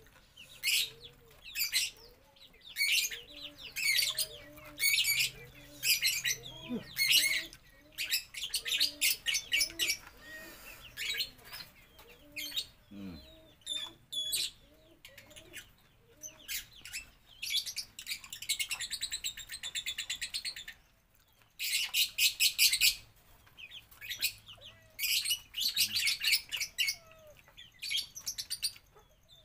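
A songbird singing actively, in short rapid chattering trills repeated about once a second with a brief pause midway, and softer low calls in between.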